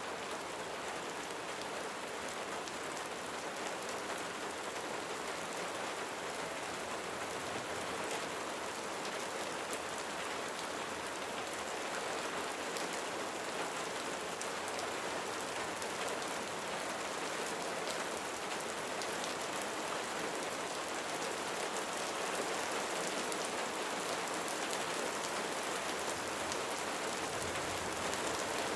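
Steady, heavy rain falling on a roof: a dense, even wash with many small individual drop impacts ticking through it.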